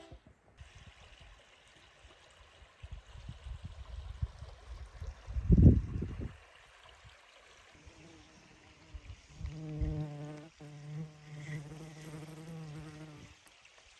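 A flying insect buzzing for about five seconds in the second half, a steady hum that wavers slightly in pitch. Before it come a few dull low thumps, the loudest about halfway through.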